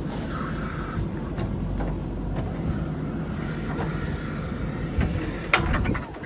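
JCB 3DX backhoe loader's diesel engine running steadily, with a short whine about half a second in and several sharp knocks, the loudest about five and a half seconds in.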